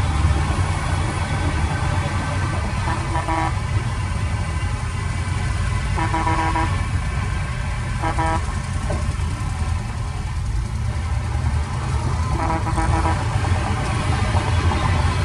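A heavy vehicle's engine running steadily with a deep rumble, broken by four short toots of a vehicle horn.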